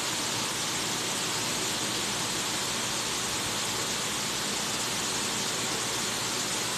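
Steady, even hiss with no other sound: the recording's background noise between narration lines.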